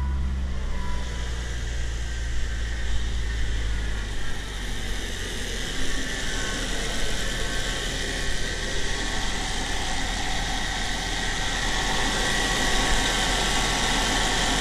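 1997 Saturn SL2's four-cylinder engine idling just after start-up, heard first from the driver's seat with a strong low hum, then from the open engine bay from about four seconds in. The radiator cooling fan stays off even with the relay swapped, pointing to a failed fan motor.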